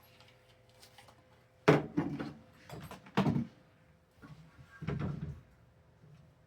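Handling noises: a few knocks, thumps and rustles of objects being moved about, in three bursts, the loudest a sharp knock about two seconds in.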